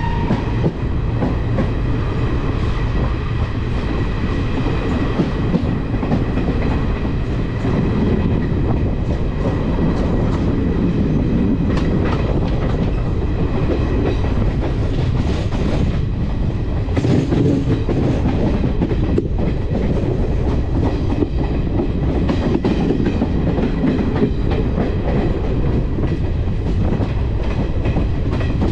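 A passenger train running on the track: a steady rumble of wheels on rails with clickety-clack over the rail joints.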